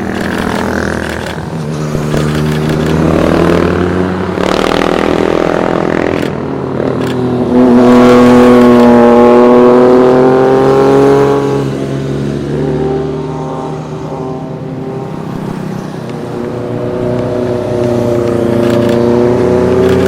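Motorcycles passing one after another, their engines revving and rising and falling in pitch as they accelerate by; the loudest pass comes about eight seconds in and lasts a few seconds.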